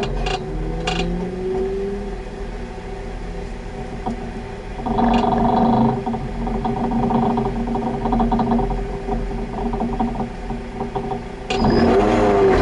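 Honda Civic's engine heard from inside the stripped, roll-caged cabin, running at a steady idle while the car waits to start. It is held at higher revs from about five seconds in, and near the end the revs jump up sharply with the pitch rising.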